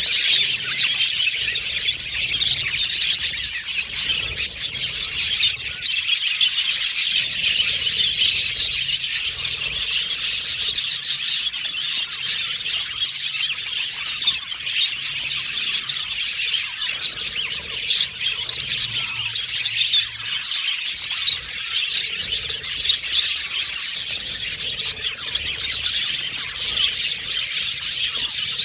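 Budgerigars chattering and chirping nonstop, a dense tangle of warbles, short chirps and whistles with no pause.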